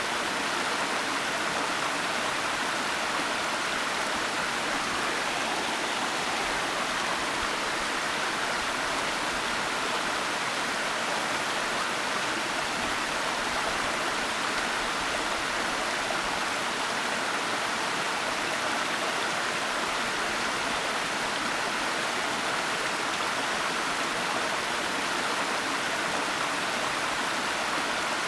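Waterfall: water rushing in a steady, even hiss that never changes, brightest in the middle and upper range.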